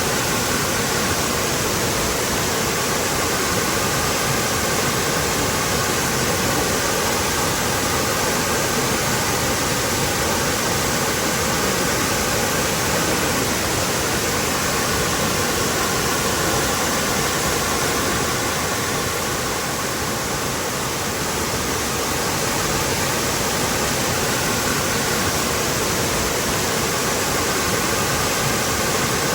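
Waterfall pouring in a steady, even rush of water, easing very slightly about twenty seconds in.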